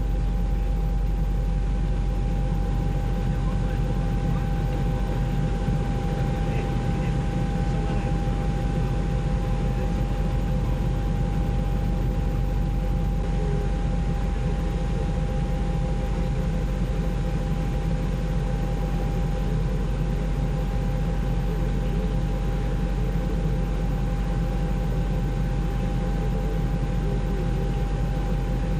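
Helicopter cabin noise: the steady drone of the rotor and turbine, with a constant whine running through it.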